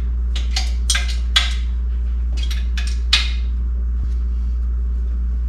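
Wrench clinking against exhaust header bolts as they are worked tight: a quick, irregular run of sharp metal clicks and clinks through the first three seconds or so, over a steady low hum.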